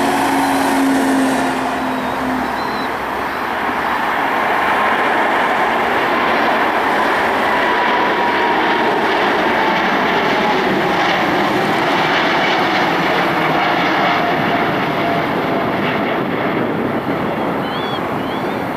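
Four GEnx-2B jet engines of a Boeing 747-8 freighter, a loud steady jet noise with a whining tone that slowly falls in pitch as the aircraft passes.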